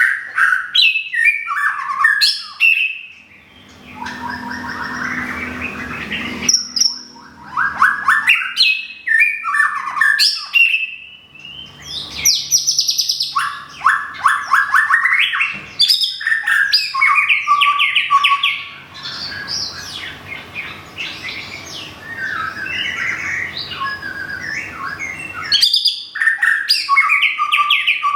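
White-rumped shama singing a long, varied song of clear whistled notes mixed with fast rattling trills, phrase after phrase with only short breaks.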